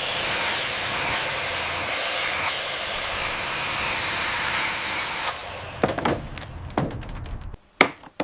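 A loud, steady rushing hiss for about five seconds that drops off suddenly, followed by a few softer knocks and then a run of sharp clicks, about three a second, near the end.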